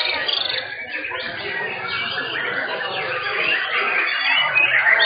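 Many caged white-rumped shamas (murai batu) singing at once, a dense, overlapping chorus of fast chirps, whistles and trills, under a murmur of crowd voices.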